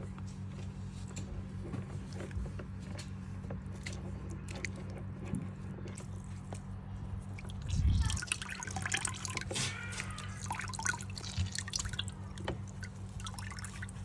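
Water dripping and trickling, with a louder rush of water about eight seconds in, over a steady low hum.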